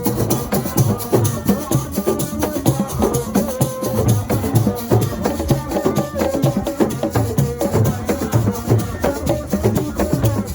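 Senegalese assiko music: a fast, dense percussion groove of drums with shaking rattles, played without a break.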